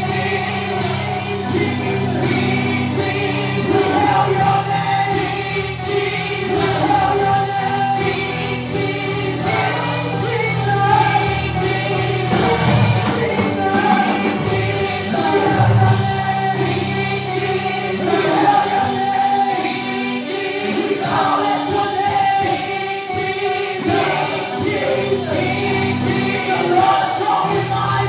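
Gospel choir singing a worship song over a live band, with sustained bass notes and a steady drum beat.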